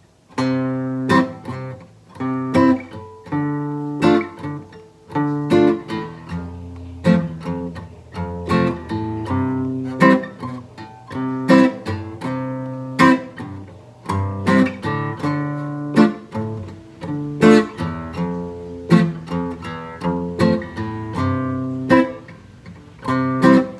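Acoustic guitar strumming the chords of a song's instrumental introduction in a steady rhythm.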